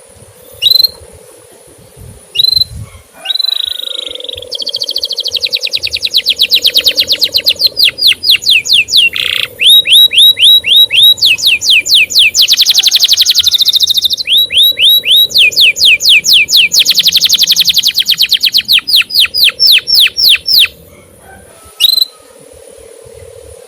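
Male canary singing: a few single chirps, then long, fast trills of rapidly repeated sweeping notes, broken by short pauses, ending with two lone chirps.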